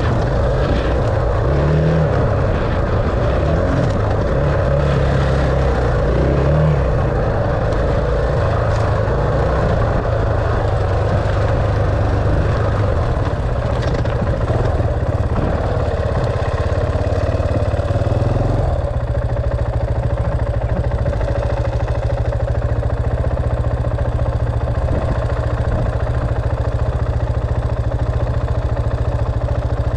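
Dirt bike engine running, its pitch stepping up and down through the first several seconds, then holding steadier from a little past halfway.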